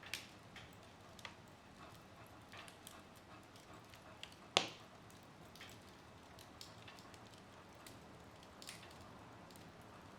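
Wood fire crackling in a fireplace: scattered small pops and ticks over a faint hiss of flames, with one sharp, louder pop about four and a half seconds in.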